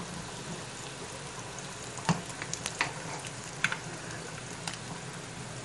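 Corn-tortilla flautas shallow-frying in hot olive oil in a skillet, a steady sizzle. A few sharp clicks and pops stand out between about two and five seconds in.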